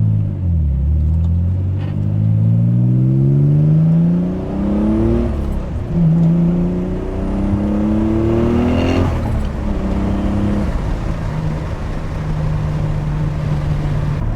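Twin-turbo Nissan 300ZX's 3.0-litre V6 accelerating hard under boost, revs climbing through two gears with an upshift about five seconds in and another about nine seconds in, a brief rush of air at the second shift. It then settles to a steady cruise.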